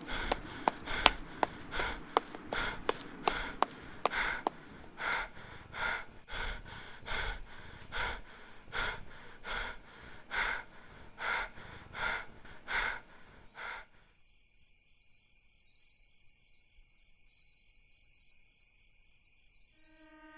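A man's heavy, rapid gasping breaths, about one to two a second, with running footsteps, stopping abruptly about 14 seconds in, over a steady high-pitched background whine. Near the end, a train horn begins faintly.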